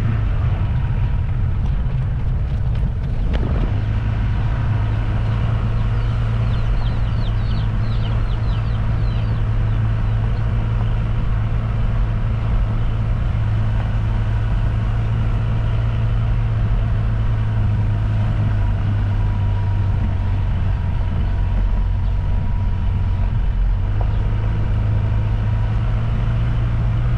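Steady low drone of a vehicle's engine and road noise, heard from on board while riding, with a few faint high chirps about seven seconds in.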